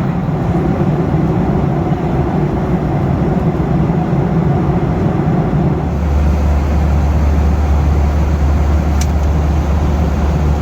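Steady roar of a Boeing 737 cabin in cruise, engine and airflow noise. About six seconds in, a deeper low hum joins it and holds.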